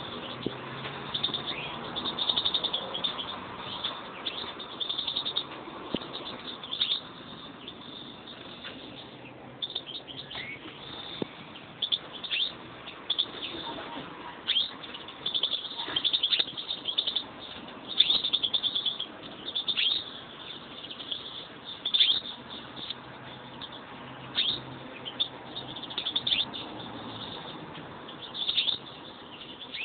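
European greenfinches chirping and twittering in repeated short bursts of high notes.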